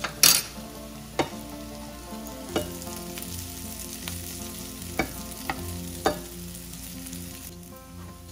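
Sliced onions and fish roe sizzling in a frying pan while tongs stir and turn them, clicking against the pan about six times. The sizzle eases near the end.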